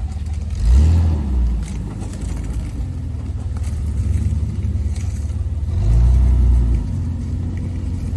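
Rock-crawling 4x4's engine idling low, with two short bursts of throttle as the rig is driven over rock, one about a second in and one near six seconds.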